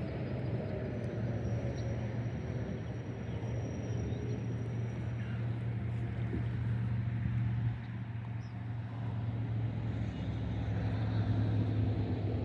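An engine running steadily with a low hum. It dips briefly about two thirds of the way in, then grows a little louder toward the end.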